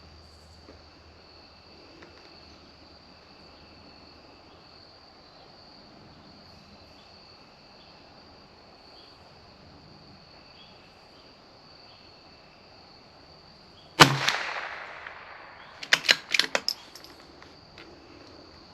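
A single shot from a CZ 457 bolt-action .22 LR rifle about fourteen seconds in, with a short decaying tail. About two seconds later comes a quick run of sharp metallic clicks as the bolt is worked to eject the case and chamber the next round.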